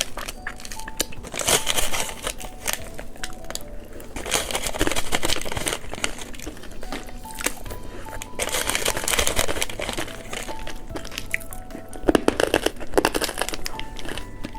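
Plastic candy wrapper crinkling in four bursts, over soft background music with a simple melody of short held notes.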